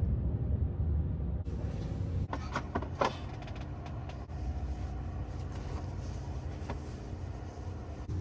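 Steady low rumble of an idling semi truck, heard from inside the cab, with a quick run of clicks and knocks about two and a half to three seconds in and another knock near the end.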